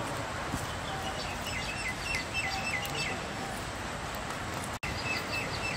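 A bird calling in quick runs of short, repeated chirps, about five a second, one run in the first half and another near the end, over a steady outdoor background noise.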